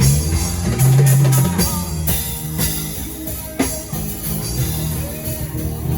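Live worship band playing under the service: drum kit hits and cymbal wash over sustained bass notes.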